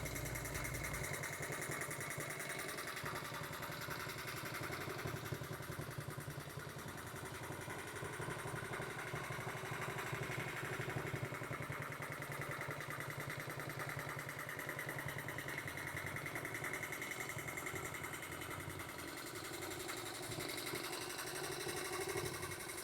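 1972 Honda Z50 mini bike's small single-cylinder four-stroke engine idling steadily.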